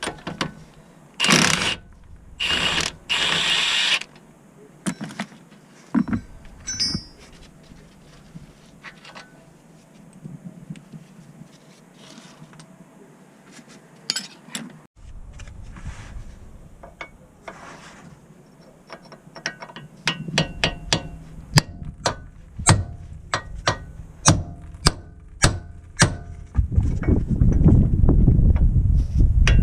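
Hand-tool and metal work sounds while working on a car: three short, loud, hissing bursts near the start, then scattered sharp metallic clicks and knocks. The clicks become a quick run of clicks over a low rumble in the last third.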